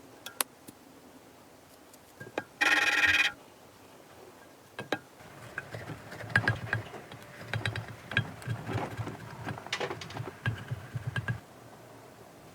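A short, loud ringing tone like a telephone ringer, lasting under a second, about two and a half seconds in. From about five seconds in, a run of irregular clicks and knocks follows for several seconds.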